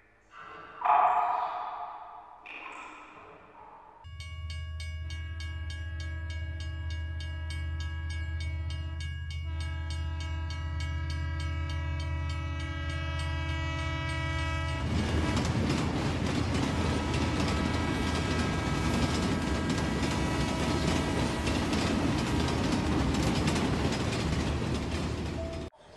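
Train sound effect: after a few short ringing hits, a train horn sounds a long steady chord from about four seconds in until a little past the middle. Then the rumble and clatter of a train running on the rails carries on, a little louder, until the end.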